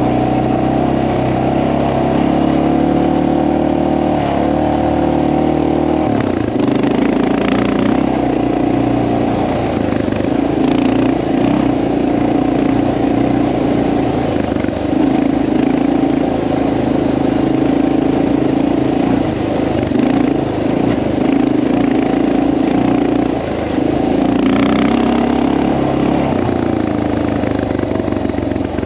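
Honda XR650L enduro motorcycle's single-cylinder four-stroke engine running under way, loud and steady, its pitch shifting a few times with the throttle, most noticeably about six seconds in and again near the end.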